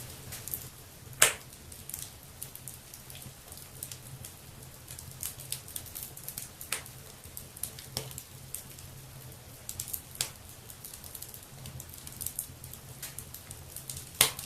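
Wood fire burning in a fireplace, crackling with irregular sharp pops, the loudest about a second in and another near the end, over a low steady hum.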